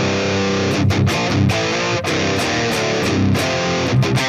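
Electric guitar with an EMG 81 pickup played through a high-gain Line 6 HX Stomp XL preset, pitch-shifted down to drop C, playing a fast picked riff with many sharp note attacks.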